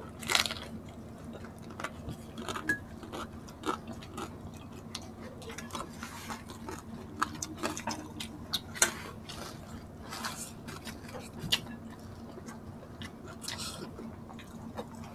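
Close-up eating sounds of crispy fried pork and noodles eaten by hand: scattered wet chewing clicks and lip smacks with a few short crunches. A faint steady hum runs underneath.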